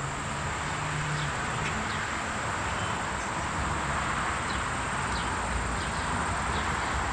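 Outdoor ambience: a steady high insect trill and a steady rushing background, with faint short bird chirps about once a second.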